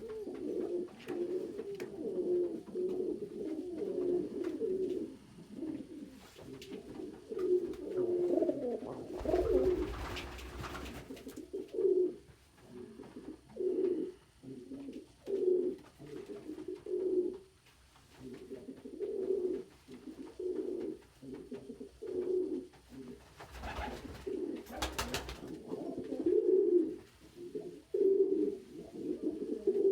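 Pet pigeons cooing repeatedly in low, rolling phrases, in a small room. Two brief rustling bursts come through, one about ten seconds in and another about two-thirds of the way through.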